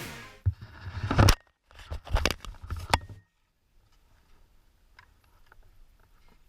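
A handful of sharp knocks and clattering thumps over about three seconds, then near silence with a few faint clicks.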